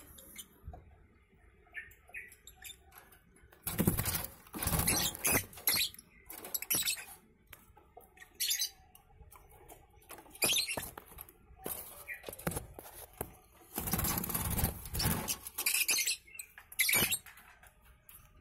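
Lovebirds scuffling and flapping in the cage and nest box while the chicks are taken out by hand: irregular bursts of rustling and fluttering a second or two long, the loudest about four seconds in and again about fourteen seconds in.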